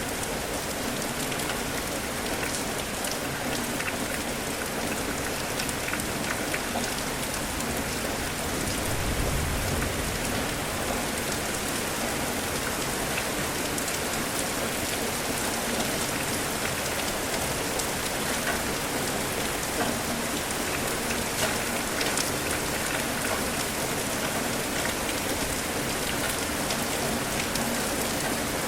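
Steady rain falling, with individual drops ticking against a surface. A brief low rumble comes about nine seconds in.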